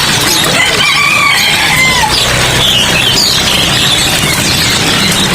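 Many caged songbirds chirping and whistling at once, short overlapping calls over a steady hiss.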